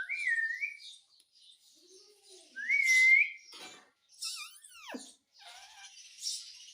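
Pet parrot whistling and chirping. A short rising whistle comes at the start and a louder whistle rises and holds about three seconds in. A long swoop falls steeply from high to low just before five seconds, then come a few short raspy chirps.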